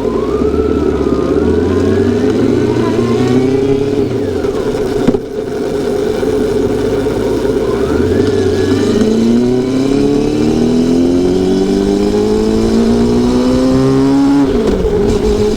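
Honda CB400SF Super Four's inline-four engine accelerating through the gears: the revs climb, drop sharply at an upshift about five seconds in, climb again in a long pull, and fall at a second upshift near the end.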